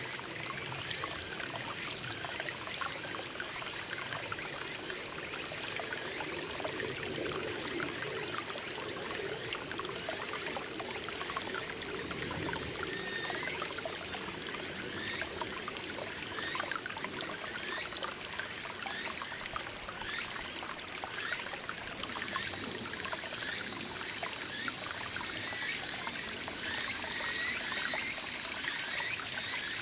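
Small mountain stream babbling and trickling steadily over rocks, with a steady high-pitched insect drone on top. The drone fades in the middle and swells again near the end, and in the second half a high chirp repeats about once a second.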